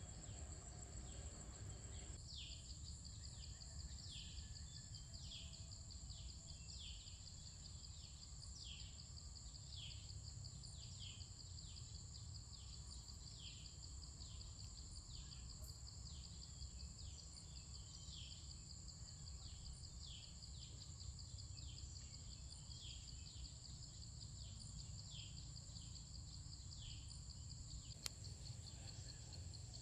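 Faint outdoor nature ambience: a steady high drone of insects, with a short falling chirp repeated about once a second from about two seconds in, over a low rumble. One sharp click near the end.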